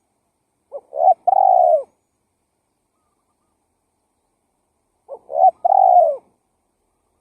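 Spotted dove cooing: two identical phrases about four seconds apart, each a quick pair of short notes followed by a longer coo that falls away at the end.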